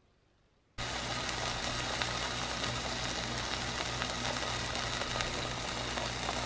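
Burger patties sizzling in a frying pan, a steady crackling sizzle that starts suddenly about a second in, with a low steady hum underneath.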